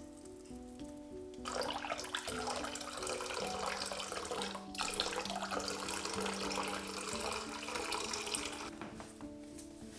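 Water running from a tap into a sink, starting about a second and a half in and stopping shortly before the end, with a brief break in the middle. Soft background music plays throughout.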